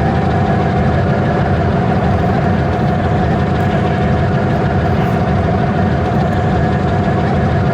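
Train running with a steady heavy drone and a couple of steady mid-pitched tones.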